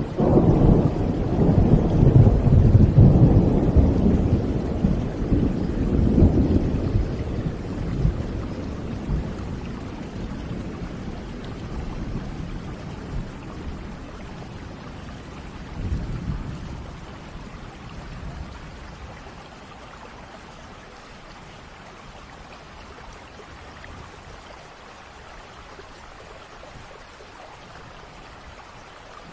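A long roll of thunder, loudest in the first several seconds and slowly fading, with a smaller rumble about halfway through, over steady rain.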